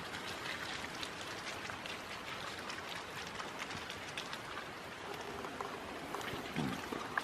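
Rain falling, with many separate drops ticking close by. About six and a half seconds in there is a short low sound that falls in pitch.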